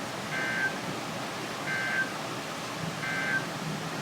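Three short bursts of warbling two-tone data from a NOAA Weather Radio broadcast, each about a third of a second long and a little over a second apart. They are the SAME digital end-of-message code that closes a weather alert, heard over steady radio hiss.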